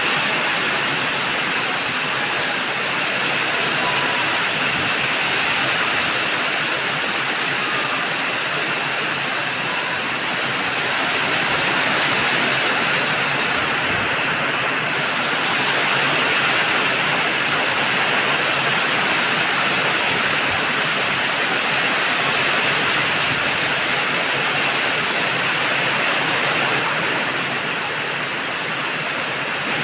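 Heavy rain pouring down in strong wind: a steady, unbroken rushing hiss.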